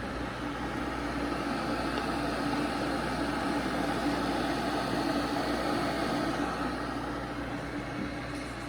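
Tumidy 1.7-litre glass electric kettle heating water on its way up to a set 195 °F, short of the boil: a steady rushing noise from the heating water that swells a little in the middle and eases toward the end.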